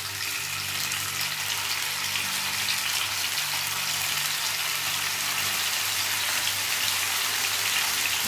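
Hot oil sizzling steadily as skewers of batter-coated paneer and vegetables are laid in to shallow-fry, the sizzle growing slightly louder as more go in.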